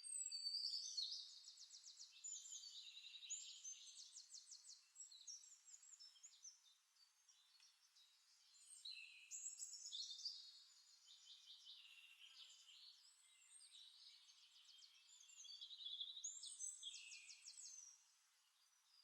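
Faint birdsong from a nature-sound recording: high, quick trills and chirps in phrases, with louder spells near the start, about halfway through and near the end.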